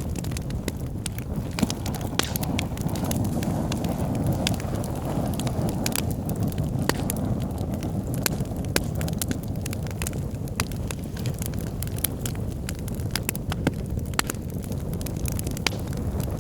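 Wood logs burning in a fireplace: a steady low rush of flames with frequent sharp, irregular crackles and pops.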